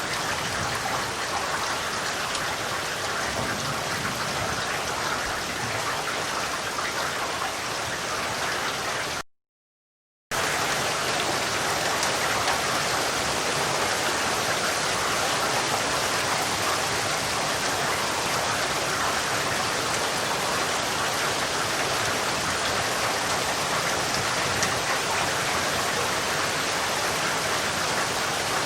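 Steady, even rain falling, a continuous hiss of drops. About nine seconds in it cuts out to dead silence for about a second, then resumes unchanged.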